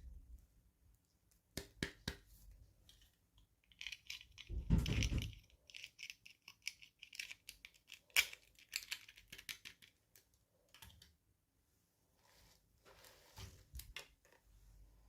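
Hands opening toy packaging: crinkling and tearing of plastic and paper with small clicks and taps, and one heavier thump about five seconds in.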